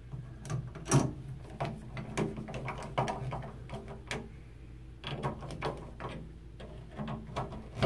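Irregular metal clicks and taps of hand tools on a Kohler shower valve as its screws are tightened down, the loudest knock about a second in.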